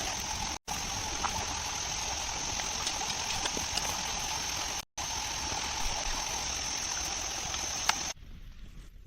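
Steady rush of flowing water, as of a forest stream. It breaks off abruptly twice and drops much quieter near the end.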